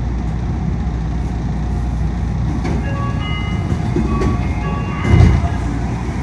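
Steady low rumble inside a Yui Rail monorail car in motion, with air-conditioning noise. Partway through comes a series of short high tones at several pitches, and about five seconds in a heavy low thump.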